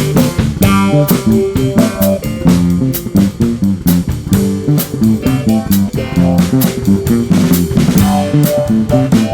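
Band playing an instrumental passage on electric guitar, bass guitar and drum kit, with a steady beat of drum hits under moving bass and guitar notes.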